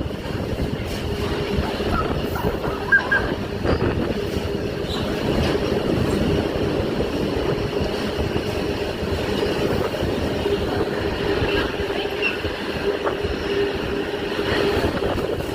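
A train passing through the station: a steady rumble of wheels on the rails, with a steady hum running underneath.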